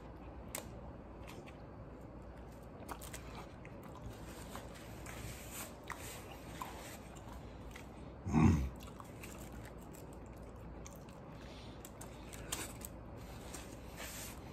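A man chewing a mouthful of burrito, with soft wet mouth clicks and smacks. About eight seconds in comes one brief low vocal sound from his throat.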